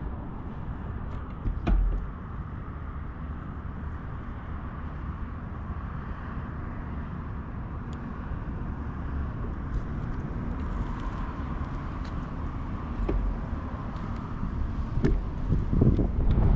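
Wind and street noise heard from a moving bicycle: a steady low rumble with a few faint clicks, growing louder and gustier near the end.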